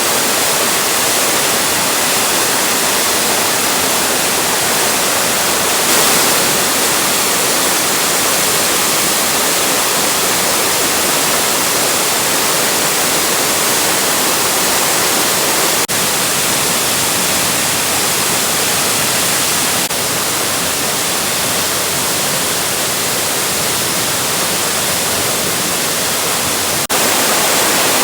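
Mikaeri Falls waterfall, a loud steady rush of falling water, with small jumps in level about 16, 20 and 27 seconds in where shots are spliced together.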